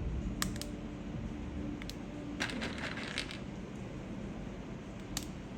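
Light, hard clicks and clatter of mechanical keyboard parts being handled during a build: a few single taps and a quick run of clicks about two and a half seconds in.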